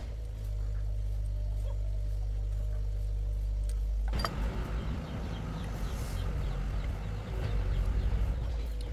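A restored tractor's diesel engine running steadily with a low hum. About four seconds in comes a sharp click, and the running turns more uneven and noisier.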